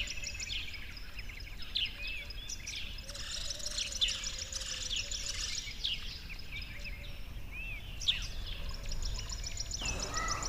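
Several birds chirping and calling, with short sweeping notes and runs of rapid, evenly repeated high trills, over a steady low hum.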